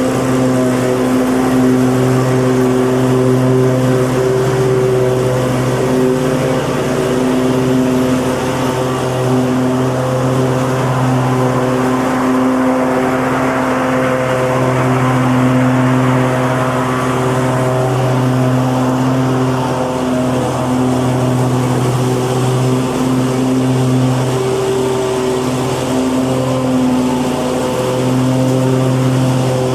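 Lawn mower engine running steadily at an even pitch, with no let-up.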